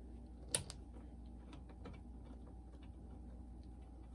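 Faint small ticks and clicks of a screwdriver backing screws out of a boombox's plastic cassette-deck housing, with one sharper click about half a second in.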